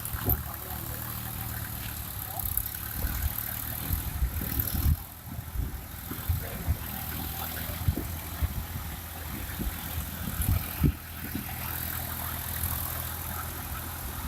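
Massey Ferguson 241 tractor's three-cylinder diesel engine running steadily, with irregular low thumps over it.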